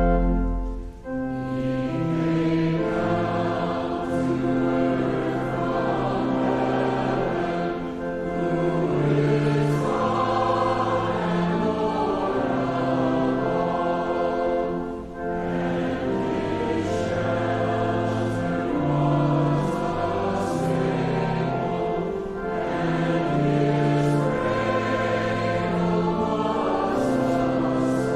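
A group of voices singing a hymn, phrase by phrase, with short breaks between lines about a second in and about fifteen seconds in.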